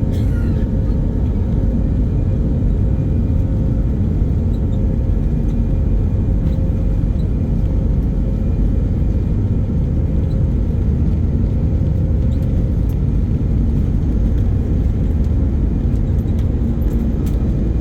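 Airbus A320 cabin noise during takeoff: a loud, steady low rumble of the jet engines and airflow, with a faint steady hum over it.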